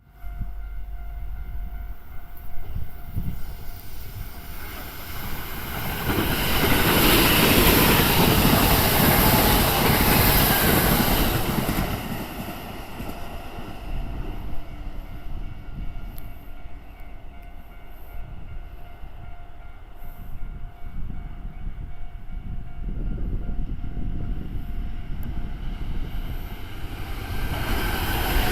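Kintetsu commuter electric train running on the rails, growing loudest for several seconds starting about six seconds in, then easing off and rising again near the end.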